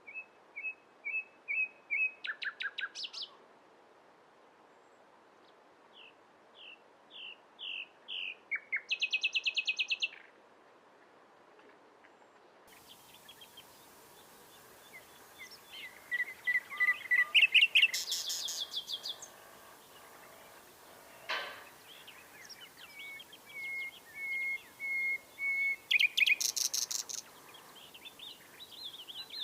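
Common nightingale singing in four separate phrases. The phrases are made of rapidly repeated whistled notes, some swelling louder note by note, and several end in fast, buzzy rattling trills, with short pauses between phrases.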